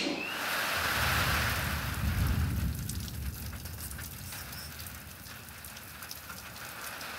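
Rain falling steadily, an even hiss, with a low rumble for a couple of seconds about a second in.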